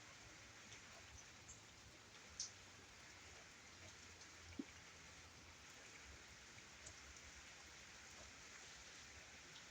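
Faint, steady rain with scattered raindrop ticks; two sharper ticks stand out, about two and a half and four and a half seconds in.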